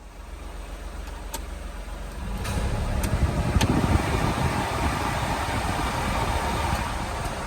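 Daihatsu Hijet truck's small three-cylinder engine running, growing louder and rougher about two seconds in, with a few sharp clicks.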